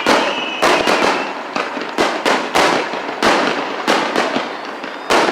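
Fireworks going off close by: a continuous crackling with loud bangs about twice a second. A thin whistle sounds through the first second.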